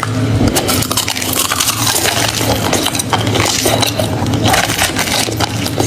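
A person chewing hard crushed ice and shaved ice chunks, a dense, continuous run of crisp cracks and crunches.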